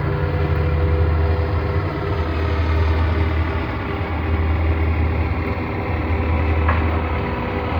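Diesel engine of a grape harvester running steadily, a constant low hum with steady tones above it.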